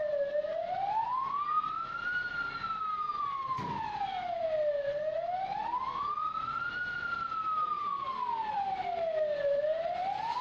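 A siren wailing slowly, its pitch rising and falling smoothly over about two long cycles.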